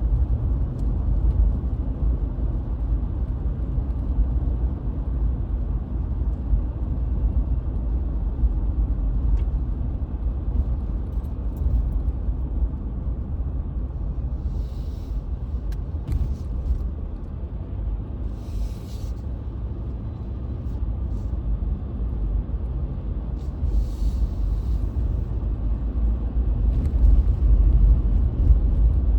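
Car driving on a snowy road, heard from inside the cabin: a steady low road-and-tyre rumble, with three brief hisses about halfway through and later.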